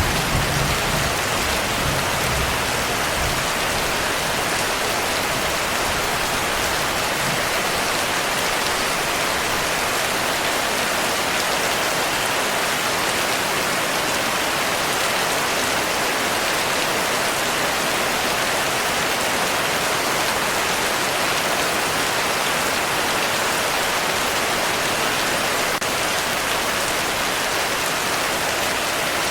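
Steady heavy rainfall, a dense even hiss. The tail of a thunder rumble dies away in the first few seconds.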